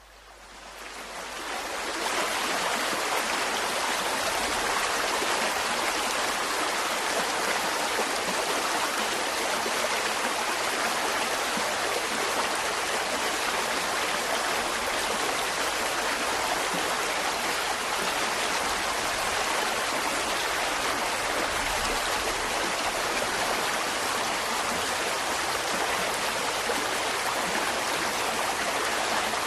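Mountain stream flowing over rocks: a steady, even rush of running water that fades in over the first couple of seconds.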